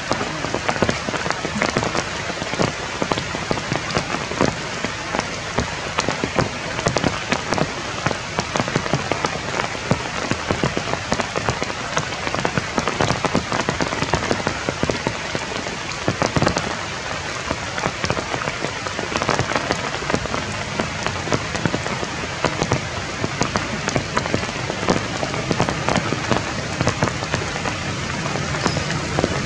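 Steady rain falling on forest foliage, with many close drops ticking.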